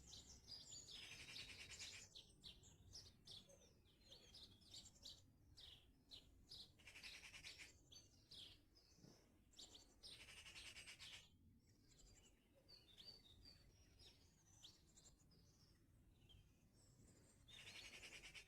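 Faint songbirds singing and chirping: short high chirps throughout, and a rapid trilled phrase coming back four times, every few seconds.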